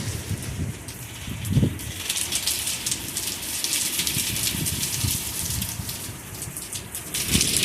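Heavy thunderstorm rain falling, a dense hiss of drops striking surfaces that thickens about two seconds in. A low rumble swells and fades underneath.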